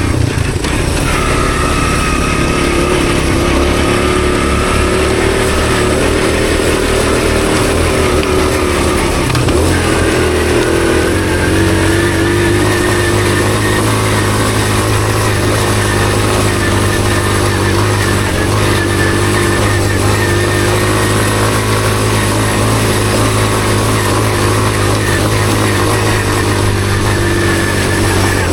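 Honda CT110 postie bike's small single-cylinder four-stroke engine running steadily while under way. The engine note changes about a third of the way in.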